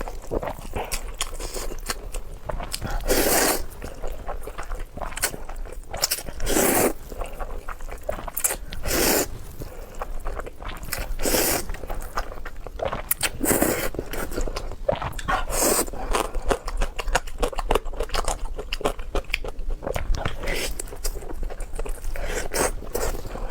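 Close-miked eating sounds: steady chewing and crunching, with louder bursts every two to three seconds.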